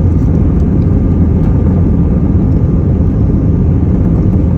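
Airbus A319 jet engines at takeoff, a loud steady low rumble.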